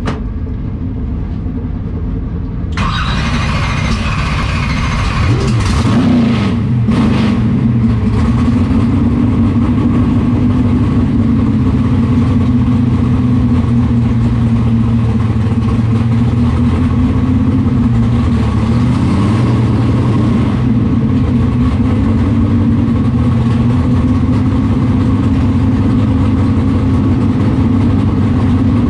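Pro Stock drag car's V8 engine running at a loud, steady idle, heard from inside the cockpit. It grows louder and fuller about three seconds in, and its pitch rises briefly twice as the throttle is blipped.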